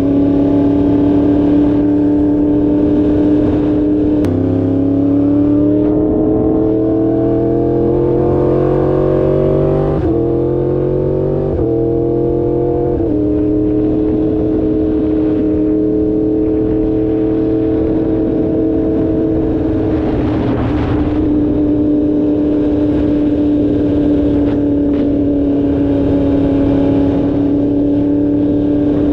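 2016 Yamaha R1's crossplane inline-four engine under way, its note climbing and stepping down at gear changes about four, ten and thirteen seconds in, then holding a steady cruise. A brief rush of noise about twenty seconds in.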